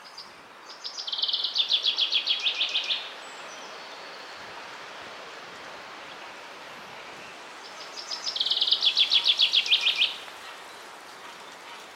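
A songbird sings two fast trills of rapidly repeated high notes, each about two seconds long and several seconds apart, over a steady background hiss.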